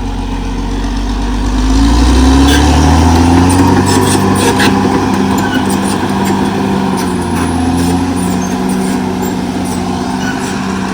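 CAT D6R XL bulldozer's diesel engine revving up about two seconds in and running hard under load, its pitch sagging briefly near the end. Sharp metallic clanks sound over it for a few seconds after the rev-up.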